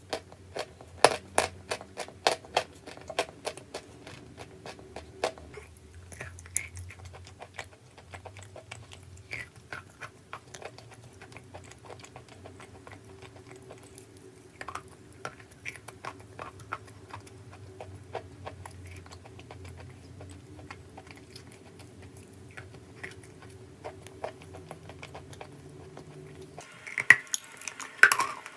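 Crunchy chalk being bitten and chewed close to the microphone: a quick run of sharp crunches for the first five seconds, then slower scattered crunches over a faint steady hum, and louder crunching again near the end.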